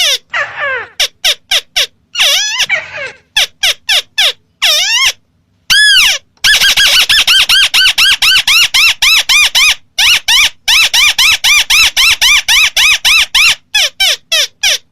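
Recorded lure call of a ruddy-breasted crake (burung tikusan), played loud: harsh, downslurred notes, first spaced apart, then from about halfway a fast run of about five notes a second with a brief break, ending in a few separate notes.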